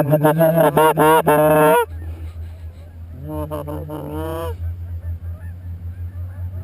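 Goose honking and clucking in quick, loud runs: a fast series of honks for about two seconds, then a shorter run about three seconds in. A low steady hum sits underneath.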